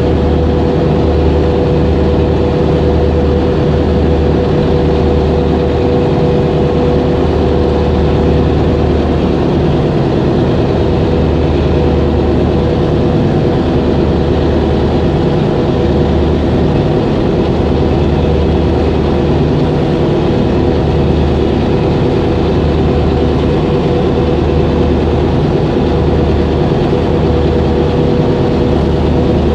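Heavy engine running steadily: a constant droning hum with a low rumble underneath that swells and drops unevenly.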